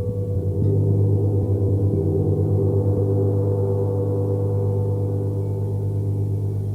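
Gong struck softly about half a second in, its deep hum with many overtones ringing on and slowly fading, with a steady pulsing wobble in its loudness.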